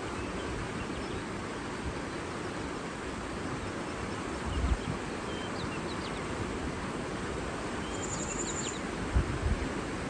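Steady rushing of water, with faint scattered bird chirps and a brief high buzzy trill about eight seconds in. A few low thumps, around four and a half seconds and again near nine seconds.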